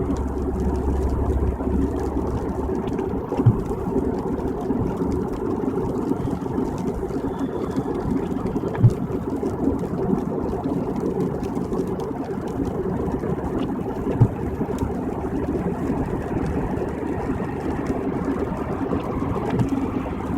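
Steady road and engine noise heard inside a car cruising on a freeway. A short knock comes about every five seconds.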